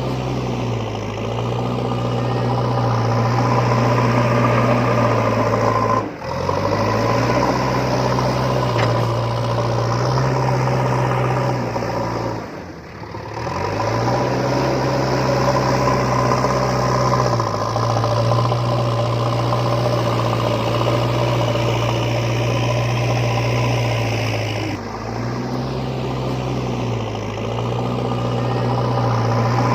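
Steady engine-like hum of a vehicle motor running, with small steps in pitch. It breaks off briefly about six seconds in and again for about a second around the middle.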